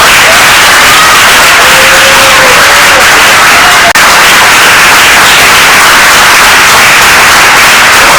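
Audience applauding, loud and steady, after a speech ends.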